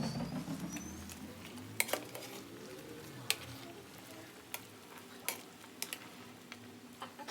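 Cooking utensil stirring and lightly knocking against a pot, with about eight scattered sharp clicks over a faint steady sizzle.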